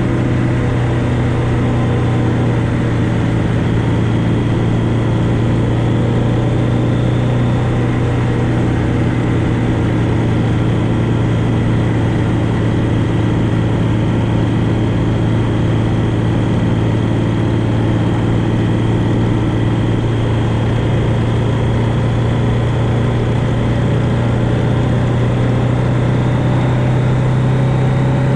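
A vehicle's engine running steadily at cruising speed, heard onboard with road and wind noise.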